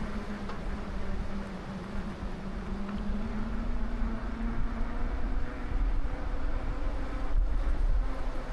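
Wind rumbling and gusting on the microphone during a ride, over a steady low hum that creeps slightly up in pitch.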